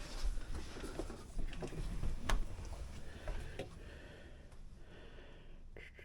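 Irregular knocks, clicks and scuffs of hands working on a dehumidifier and its ductwork, over a steady low hum. The sharpest knocks come about a second and two seconds in.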